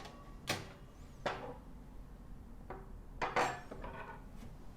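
A few separate light metallic knocks and clinks as the toaster oven's rotisserie spit and skewer forks are handled and fitted together, the loudest a quick pair about three and a half seconds in.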